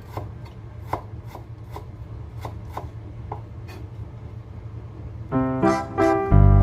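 Knife chopping on a cutting board, sharp evenly spaced strikes about three a second. Upbeat keyboard and accordion music comes in loudly about five seconds in.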